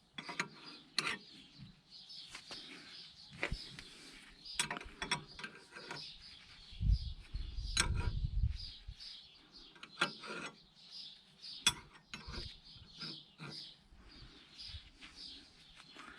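Hand tools working on metal parts of a car's front wheel hub and brake assembly: scattered sharp clicks, clinks and ratchet-like knocks, with a low rumble about seven to eight and a half seconds in.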